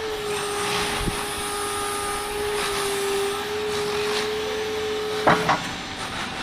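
Electric motor of a semi-electric paper roll clamp truck running with a steady whine as the clamp is lowered, cutting off with a clunk about five seconds in.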